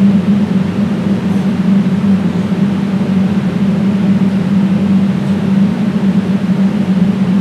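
Loud, steady low hum with an even hiss over it, unchanging throughout.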